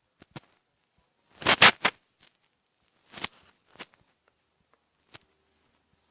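A few short scrapes and knocks at irregular intervals, the loudest a pair of rasping scrapes about a second and a half in and another about three seconds in, with lighter ticks between.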